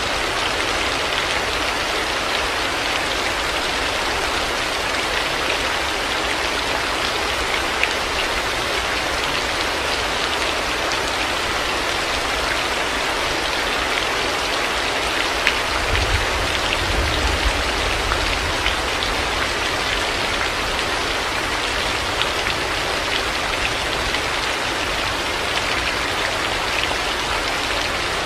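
Heavy rain falling steadily, with scattered sharper drop ticks. A brief low rumble of thunder comes about halfway through.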